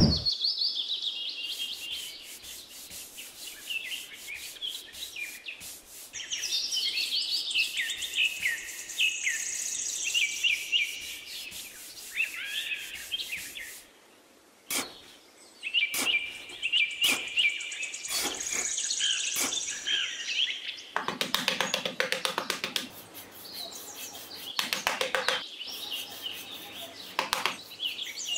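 Small birds chirping and twittering, with sand being brushed and scraped over a plastic pond liner. The scraping is heaviest a little past the middle, and a few sharp clicks come around the middle.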